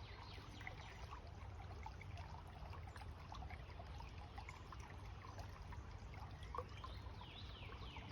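Faint outdoor ambience: birds calling in series of quick falling notes over a soft trickle of water.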